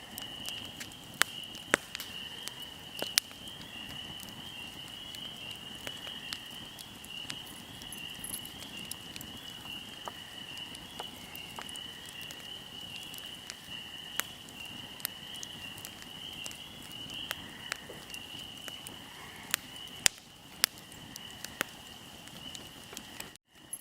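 Fire crackling: irregular sharp pops and snaps, a few much louder than the rest, over a soft hiss, with a steady high-pitched chirring tone underneath. The sound drops out for a moment near the end.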